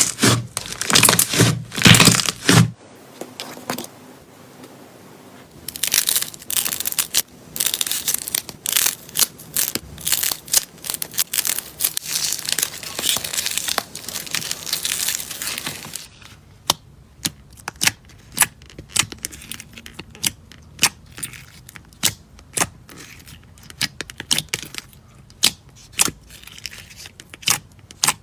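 Crunchy slime being squeezed and worked by hand, crackling densely, then from about halfway in giving separate sharp pops about one or two a second.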